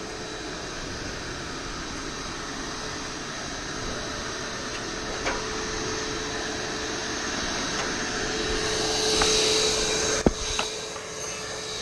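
Bee vacuum's motor running steadily with a constant hum, getting louder about nine seconds in. A sharp knock comes just after ten seconds.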